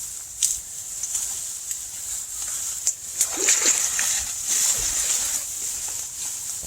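Legs wading through shallow marsh water, with irregular splashing and sloshing steps.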